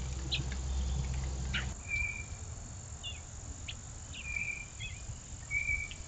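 Wild birds calling from the trees: scattered short chirps and a few brief whistled notes. A low rumble is the loudest sound at first and stops abruptly a little under two seconds in.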